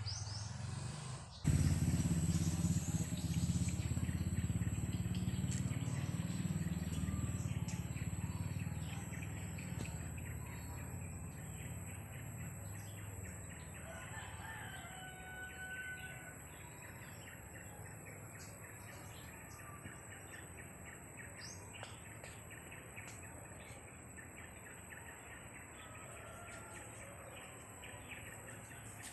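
Birds chirping faintly now and then, over a low rumble on the microphone that starts suddenly about a second and a half in and fades away over the next ten seconds. A steady thin high whine runs underneath.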